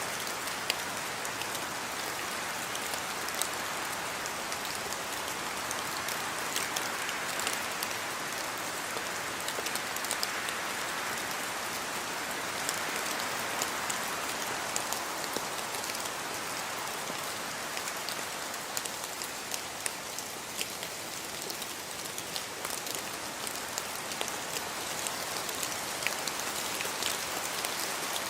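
Steady rainfall: an even hiss of rain with many individual drops ticking sharply on a hard surface.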